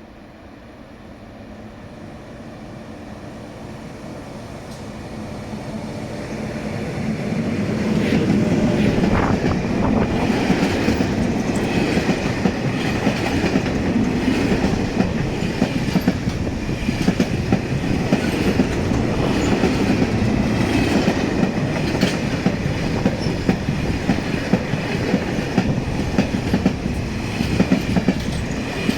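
Freight train approaching, growing louder over about eight seconds, then passing close by with its wagons' wheels clattering over the rail joints.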